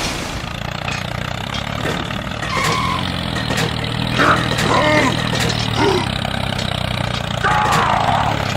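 An engine running steadily at idle, with short bursts of voices over it.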